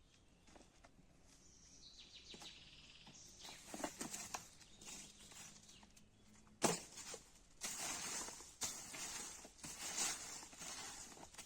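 Outdoor handling sounds: a few light taps, then one sharp knock just under seven seconds in, followed by repeated rustling or scraping bursts. A bird chirps faintly in the first half.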